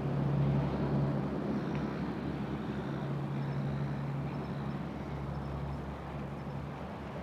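A passing boat's engine, a steady low droning hum, loudest about a second in and then slowly fading.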